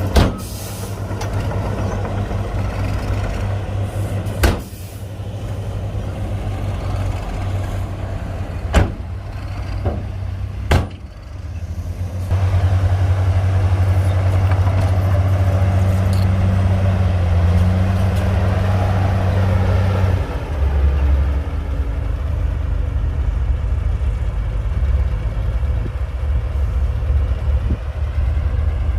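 Heavy diesel earthmoving machinery running, with several sharp clanks in the first eleven seconds. The engine grows louder about twelve seconds in, and its note drops lower about twenty seconds in.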